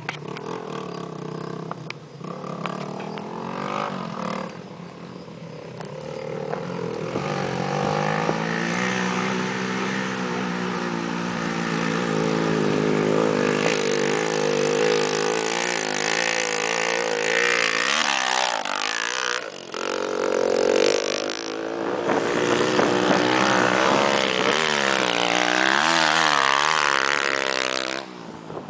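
Single-cylinder four-stroke off-road motorcycle engine revving hard as it climbs a steep dirt slope, its pitch rising and dropping back over and over and growing louder from about seven seconds in.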